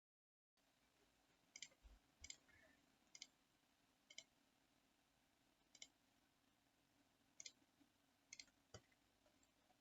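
Computer mouse clicks: about eight short, sharp clicks spaced unevenly, each quiet, over faint room hiss.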